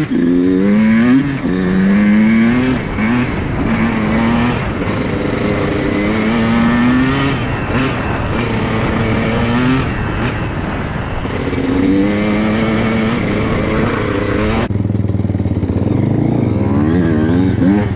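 Off-road vehicle engine being ridden hard, its pitch climbing and dropping over and over as the rider opens and closes the throttle and shifts. About 15 s in it settles to a lower, steadier drone, then revs up again near the end.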